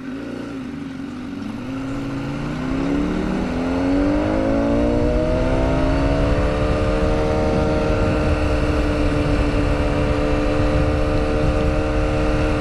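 Honda CBR1000RR inline-four engine rising steadily in pitch and loudness over about five seconds, then holding a steady note.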